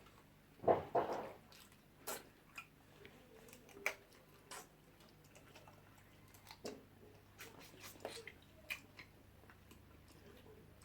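Close-up eating sounds of jollof rice and fish: chewing with scattered short clicks. A louder noisy burst about a second in.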